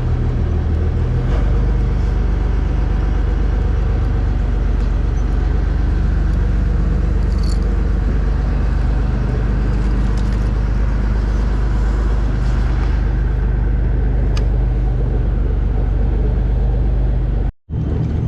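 Fishing boat's engine running steadily, a continuous low rumble with water and wind noise over it; the sound cuts out for a moment near the end.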